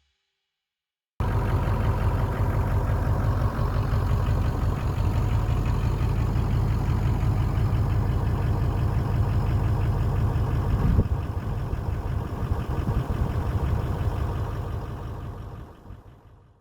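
An engine running steadily with a deep, even pulse, cutting in abruptly about a second in and fading away near the end.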